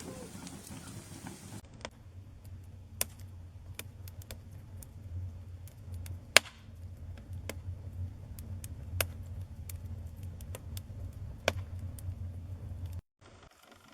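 Wood campfire crackling: irregular sharp pops and snaps over a low steady rumble, the loudest pop about six seconds in. The sound changes abruptly early on and cuts off suddenly about a second before the end.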